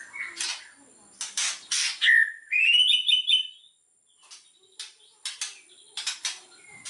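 White-rumped shama singing: short, sharp, harsh notes, then a rising whistle about two seconds in that breaks into a quick repeated phrase, followed by more sharp notes.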